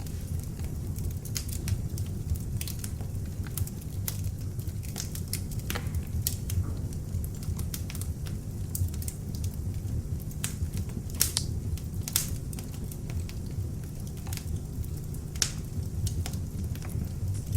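Beech-wood log fire burning in an open fireplace, with a steady low rumble of the flames and frequent sharp, irregular crackles and pops from the wood.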